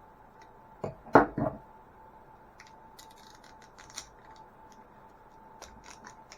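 Plastic toy cauldron and its packaging being handled and worked open: a loud brief knock of handling about a second in, then a run of small sharp clicks and scrapes of plastic.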